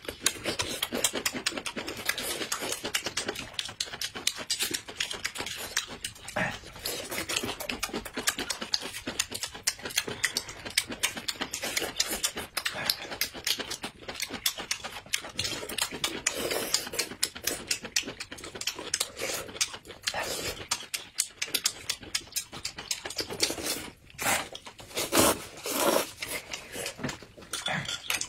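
Close-up chewing of peeled sugarcane sticks: dense, quick, wet crunching and sucking as two people bite and chew the fibrous cane, with a few louder bursts near the end.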